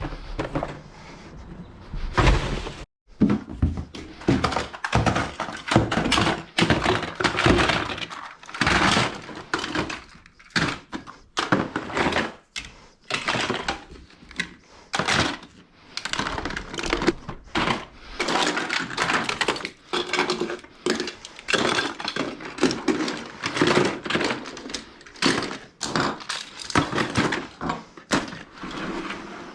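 Household belongings such as toys, books and furniture being picked up, moved and set down: a long run of irregular knocks, thuds and clatters.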